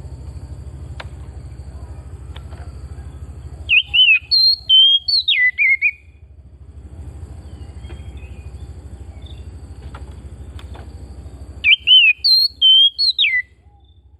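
Oriental magpie-robin (kacer) singing: a phrase of clear whistled notes sliding up and down, heard twice about eight seconds apart in the same pattern, over a steady low hum.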